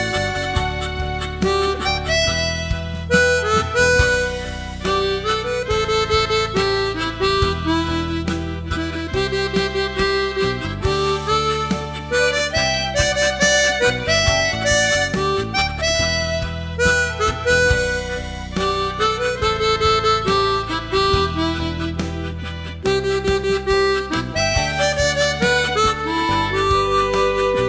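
Harmonica ensemble of chromatic harmonica and blues harp playing a melody over held chords and a low bass line.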